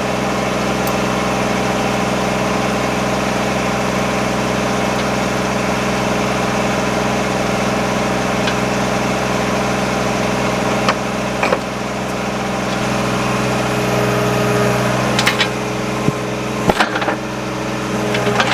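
Excavator's diesel engine running steadily while it pulls on the jammed truck door, with a few short, sharp metallic knocks in the last few seconds.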